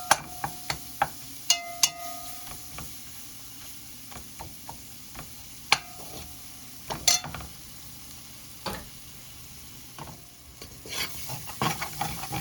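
Flour roux with diced tomato sizzling in a pot, while a spoon stirs it and knocks against the pot now and then. Several of the knocks ring briefly.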